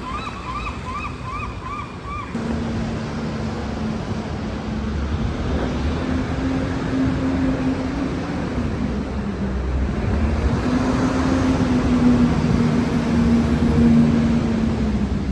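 Heavy rain and traffic on a wet city street: a steady hiss, with a vehicle's engine hum that comes in about two seconds in and builds louder toward the end. For the first two seconds a repeated wavering chirp sounds, then stops.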